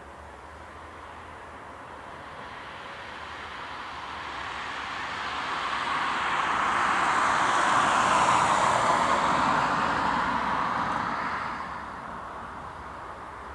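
Antonov An-124-100's four Progress D-18T turbofans at takeoff power as the heavy freighter passes: a broad jet rumble that swells over several seconds, is loudest about eight seconds in, and falls away fairly quickly near the end.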